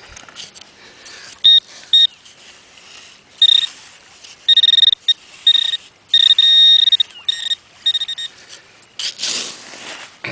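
A metal-detecting pinpointer beeping at a buried target: a high steady tone in short beeps, then longer runs, as it is worked over the hole. A brief rustling scrape comes near the end.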